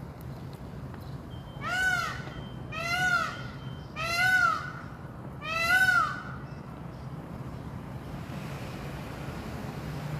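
Peafowl giving four loud, wailing calls in a row, each rising and falling in pitch, over a steady low background hum.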